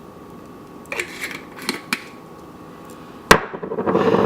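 Spice containers handled on a kitchen counter: a few light clicks, then a sharp knock about three seconds in, followed by a quick rattling shake of seasoning over chicken.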